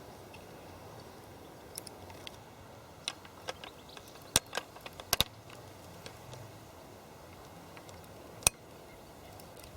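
Scattered sharp mechanical clicks and small knocks from a Seagull 203 folding medium-format camera being worked on its tripod. They bunch together in the middle, with the loudest clicks there, and one more sharp click comes near the end.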